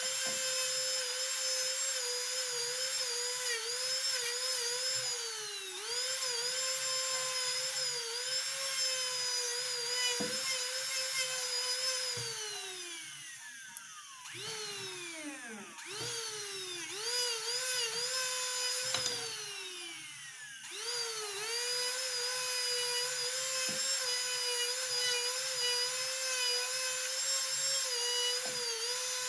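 A high-speed jeweller's rotary handpiece whining steadily, its pitch dipping briefly again and again as it is pressed against the work for grinding or polishing. Around the middle it is slowed hard several times, falling in pitch and going quieter, then spins back up to full speed.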